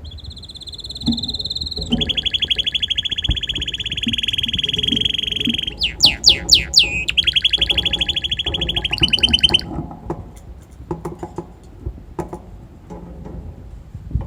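Red-factor canary singing a song of fast rolling trills. A high held note gives way to a long rapid trill, then four quick downward-sweeping notes, then another rapid trill. The song breaks off about ten seconds in, leaving scattered short chips and clicks.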